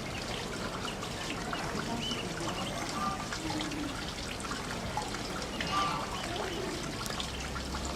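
Water trickling and pouring steadily in a call duck ducklings' bathing pool, with scattered short, high peeps from the ducklings.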